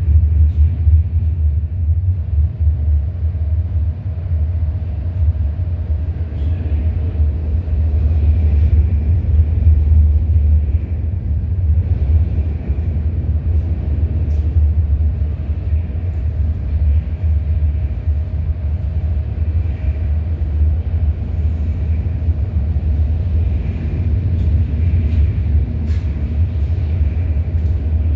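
Freight train rolling past, a continuous heavy low rumble of its wheels on the rails, with a faint steady tone and scattered light clicks that come more often near the end.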